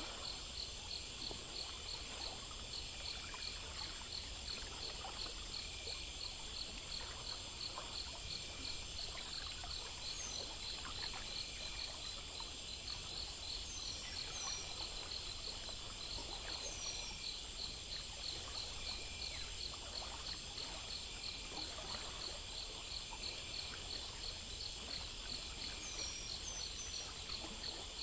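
Crickets and other insects chirping in steady, fast pulsing trains, with a faint trickle of water underneath. A few short falling chirps come now and then.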